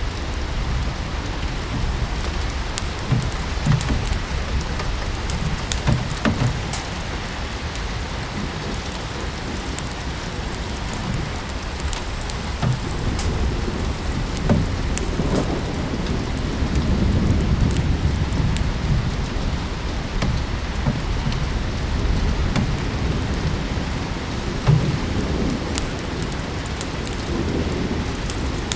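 Steady rain falling with a wood fire crackling in short sharp pops throughout, and a low rumble swelling up around the middle.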